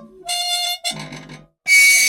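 Squeaky old machine squealing in short, high-pitched squeaks with a rough, lower groan about a second in and a loud squeak starting near the end. The squeal is that of dry, unoiled moving parts.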